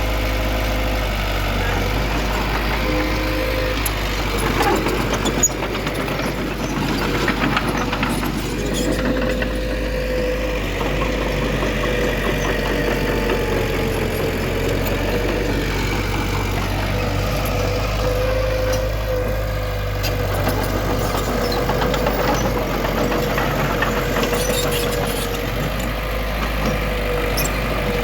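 Diesel engine of heavy earth-moving machinery running steadily under a constant whine, with a few brief knocks a few seconds in.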